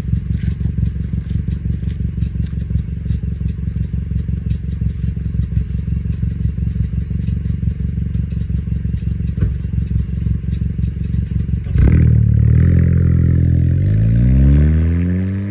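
2017 Chevy Cruze with a full custom exhaust, idling with a rapid, uneven pulsing rumble. About twelve seconds in, the engine is revved: the exhaust note climbs in pitch, peaks, then falls back toward idle near the end.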